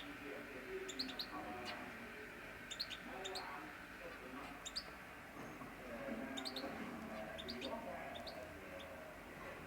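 Canaries chirping: short, high chirps scattered irregularly throughout.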